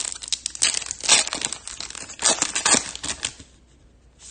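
Trading card pack wrapper crinkling and tearing as it is opened, a run of quick crackly rustles that dies down after about three and a half seconds.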